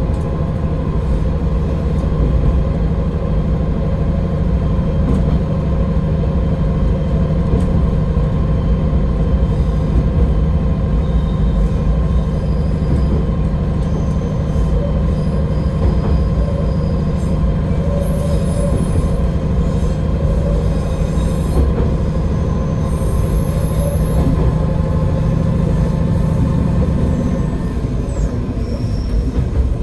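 AN-8800 diesel railcar under way: a steady engine drone with wheels running on the rails. The engine note drops away about two seconds before the end.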